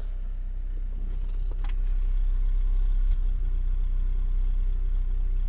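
Vauxhall Cavalier Mk2's 1.6-litre four-cylinder S16SH engine idling steadily at full operating temperature, its distributor rebuilt and ignition timing freshly set, and sounding about spot on. It gets a little louder about two seconds in.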